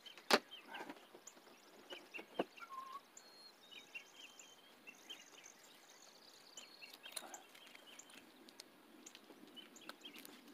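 Birds chirping with short, scattered calls, and a sharp click about a third of a second in, another just before 2.5 s, and a few fainter ticks later.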